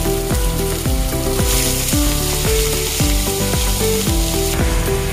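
Minced ginger sizzling in hot oil in a frying pan. The sizzle gets stronger about a second and a half in and eases near the end, under background music with a steady beat.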